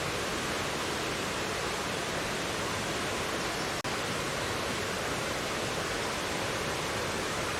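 Mountain valley stream rushing steadily over rocks, a dense even wash of water noise. A very brief dropout breaks it a little before the middle.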